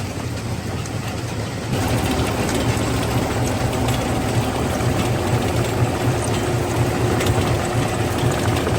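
Stone-crushing plant machinery running steadily with a low rhythmic throb; it grows louder and fuller about two seconds in.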